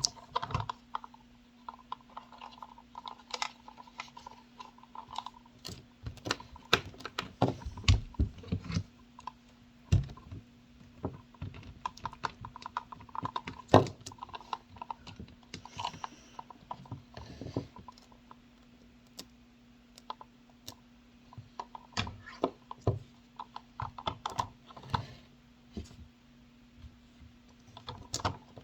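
Irregular mechanical clicking and knocking with short whirring spells over a steady low hum, from a V950 RC helicopter that is not working properly.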